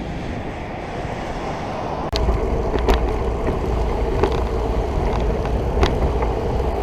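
Rushing and buffeting noise on a moving bicycle-mounted microphone, with road and tyre noise underneath. The low rumble gets stronger about two seconds in, and a few sharp clicks or knocks come through.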